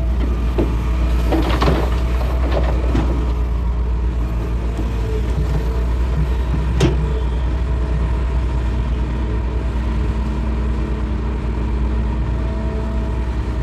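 Hitachi excavator's diesel engine running steadily, with a run of scrapes and knocks of the bucket on rock about one to three seconds in and a single sharp knock about halfway through.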